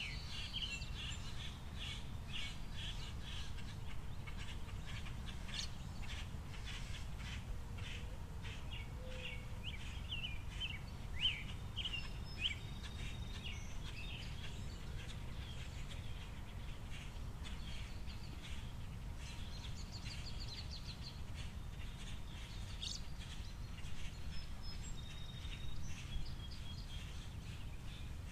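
Finches and other small birds chirping in many quick, short calls, with a few sharp clicks among them, over a steady low rumble.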